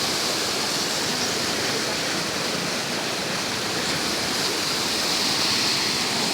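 Rain-swollen river rushing past, a steady, unbroken hiss of fast-flowing water.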